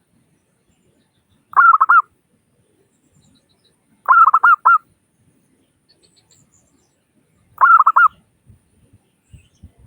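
Zebra dove (perkutut) cooing: three short phrases a few seconds apart, each a quick run of about four clipped, ringing coos.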